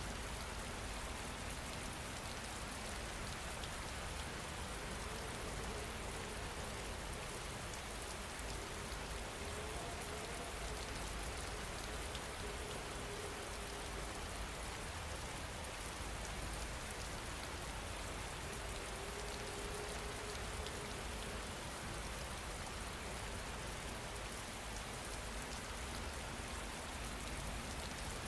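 Steady rain falling, an even hiss with fine pattering drops that holds at one level throughout.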